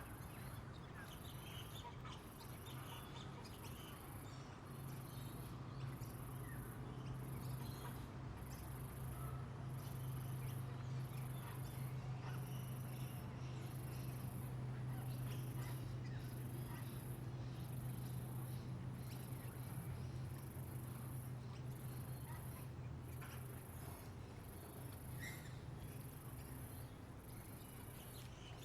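An insect chirping in regular high-pitched pulses, about one a second, with scattered short bird chirps and a steady low hum underneath.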